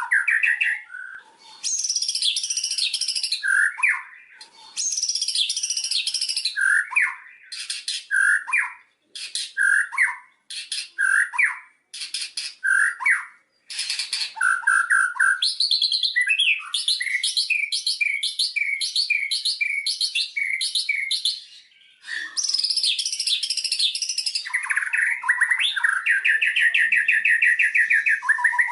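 White-rumped shama (murai batu) singing a varied song: clear whistled notes alternating with fast, high chattering phrases. Short pauses separate the phrases, and there is a run of evenly repeated notes midway.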